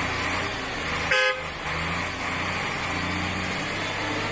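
Heavy truck engine running steadily, with one short horn toot about a second in.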